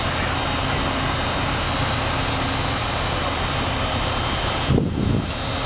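Steady rumble and hiss of a commuter train rolling along the station tracks. Near the end the steady sound gives way to uneven low rumbling.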